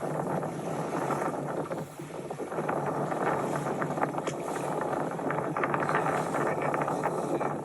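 Wind buffeting the microphone with water rushing and splashing aboard a small sailboat under way at sea.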